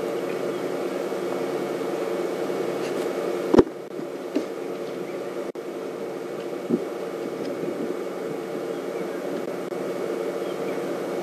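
A steady mechanical hum, with a single sharp click about three and a half seconds in and a smaller knock a few seconds later.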